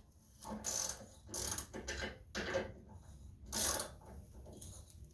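Hand ratchet wrench being worked back and forth in about five short strokes, its pawl clicking with each swing.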